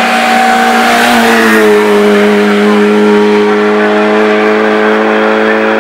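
Peugeot 106 Rallye's four-cylinder engine racing uphill at high revs, a loud steady note whose pitch dips slightly about a second in and then holds.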